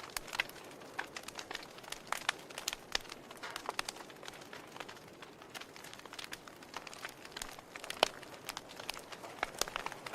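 Wood fire in a fireplace crackling: irregular sharp pops and snaps over a soft hiss, with one louder pop about eight seconds in.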